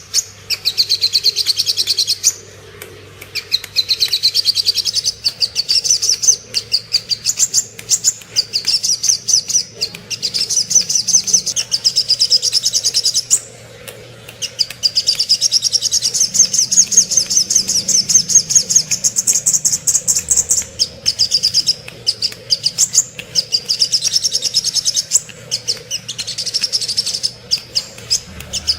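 Little spiderhunter (sogok ontong) calling: long runs of rapid, high chipping notes, broken by short pauses about two seconds in and again near the middle.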